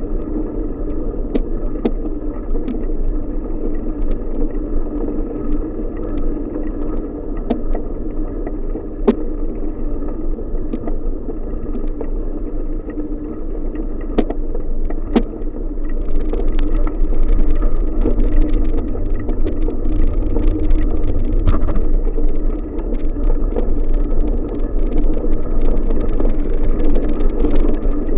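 Riding a bicycle on a rural road: a steady rolling rumble with scattered clicks and rattles from the bike, and wind on the microphone. It gets louder and heavier a little over halfway through.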